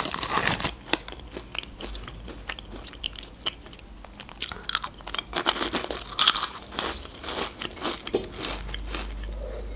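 Close-miked crunching and chewing of small Ozmo biscuit snacks filled with strawberry milk pudding, with several crisp bites spread out. The plastic snack bag rustles briefly at the start as a piece is taken out.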